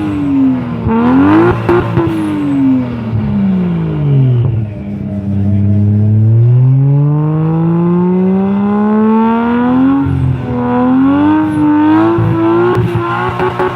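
Toyota Cressida's 3.0-litre twin-cam 24-valve straight-six revved through a modified exhaust. There is a quick blip about a second in, then the revs fall away to a steady low note, climb slowly for several seconds, and waver up and down near the end.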